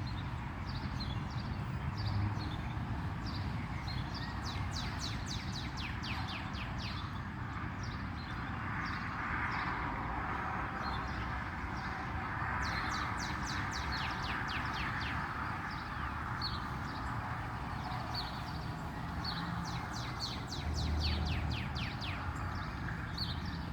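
Songbirds chirping in quick runs of short, high, falling notes, over a steady hum of distant road traffic that swells for a few seconds in the middle.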